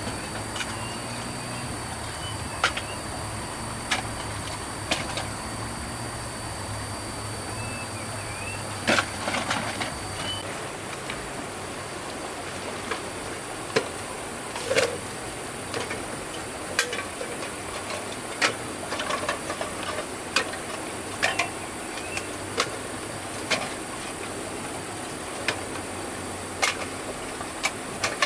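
Scattered sharp knocks and clacks at an irregular pace, over a steady high hiss. A low hum and a thin high tone fade out about ten seconds in.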